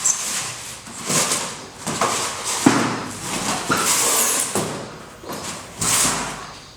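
A run of scraping and rubbing noises with a sharp knock about a third of the way in, as a rigid foam insulation board is handled and measured.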